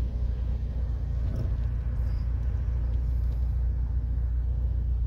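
Freight cars of a mixed manifest train rolling past on the rails, a steady low rumble as the end of the train goes by.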